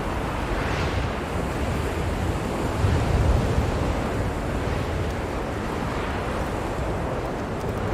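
Blizzard wind blowing steadily, a continuous rushing noise with a deep low rumble, swelling into a stronger gust about three seconds in.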